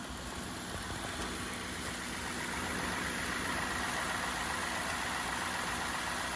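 2005 Cadillac DeVille's 4.6-litre Northstar V8 idling steadily, with a rushing hiss that grows louder about two seconds in. It runs without the rough idle typical of a blown head gasket on a high-mileage engine.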